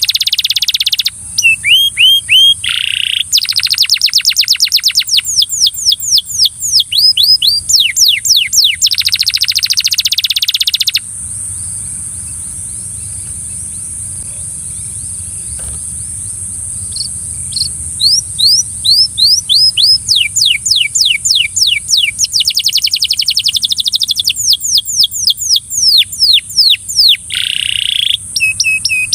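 Belgian canary singing a long, loud song of rapid trills and repeated downward-sweeping notes; it breaks off about eleven seconds in, goes quiet for several seconds, then starts up again with more trills and sweeps.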